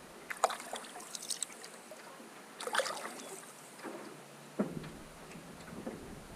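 Canoe paddle strokes in river water beside an aluminium canoe: splashes and drips in clusters, a stroke roughly every two seconds.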